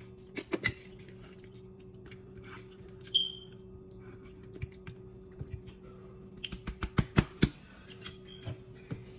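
Sharp clicks and clinks of eating utensils against a bowl while noodles are eaten, with a quick flurry of taps about seven seconds in, over a low steady hum.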